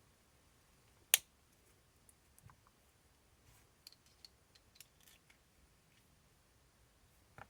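One sharp click about a second in, then scattered light ticks: small RC shock parts being handled at the workbench.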